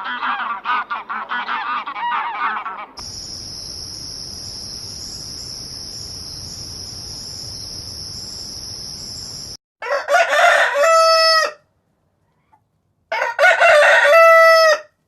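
Geese honking for the first few seconds. Then a steady high-pitched buzz that cuts off abruptly. Then a rooster crows twice, each crow a long call that holds its pitch at the end.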